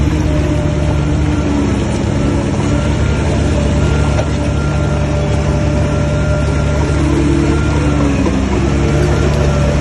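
Heavy diesel engine of earth-moving machinery running steadily, a low hum with several steady tones that shift briefly in pitch near the end.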